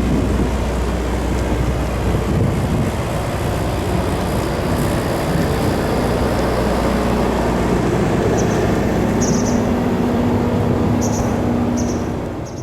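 Steady, loud low vehicle rumble, with a humming tone that grows stronger in the second half and a few short high chirps near the end.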